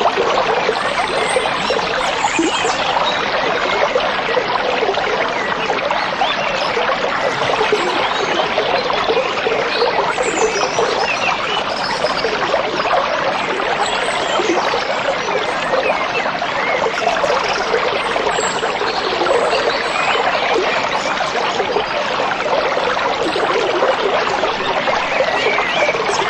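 Stream water trickling and splashing in a steady, unbroken rush, with faint high bird chirps now and then.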